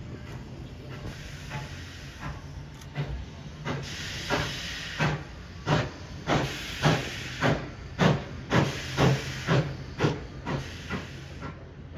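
Steam locomotive chuffing with steam hiss: regular exhaust beats that grow louder and come slightly faster, about two a second, then fade away near the end.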